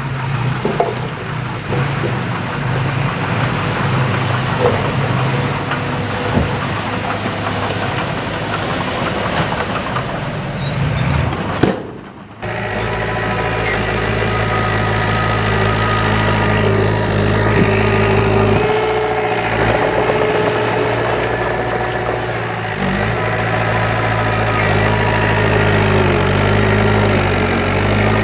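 Heavy diesel engine of earth-moving machinery running steadily. There is a brief dropout about twelve seconds in, after which a steadier, deeper engine hum carries on.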